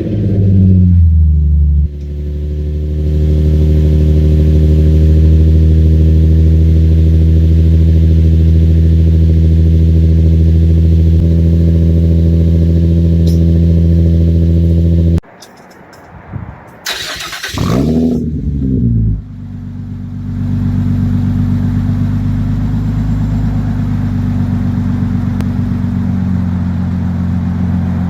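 Infiniti G35 sedan's V6 through a Borla Pro XS exhaust with a Tanabe resonator and the catalytic converters cut out: a rev dies down into a steady, deep idle. About fifteen seconds in the sound cuts off abruptly. A couple of seconds later the engine sweeps up in pitch and back down, then settles into a steady idle again.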